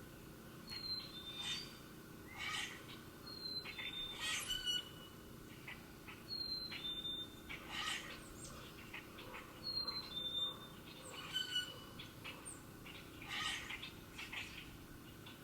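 Wild songbirds chirping and calling, with a short high two-note whistle repeating every few seconds among scattered quick chirps.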